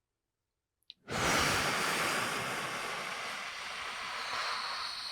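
A long, loud breath close to the microphone, starting suddenly about a second in and fading slowly over about five seconds: a deep yoga breath taken with a cat-cow movement.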